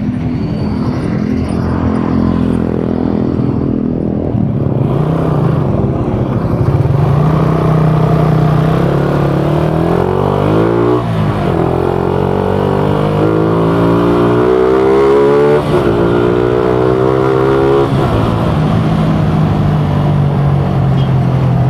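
Suzuki Raider 150 single-cylinder four-stroke motorcycle engine running through a gutted stock muffler while riding. It holds a steady note for the first half, then its pitch climbs and drops back sharply at gear changes, about three times, past halfway.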